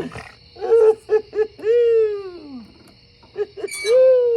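A person whooping twice in celebration: two long, falling "whooo" cries, each led by a few short calls, over a low steady rumble.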